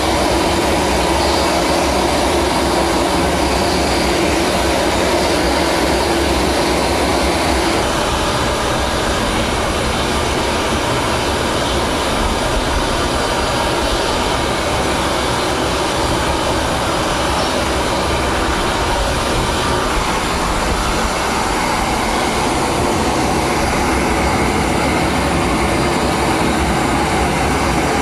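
Steady, loud aircraft engine noise that runs on without a break.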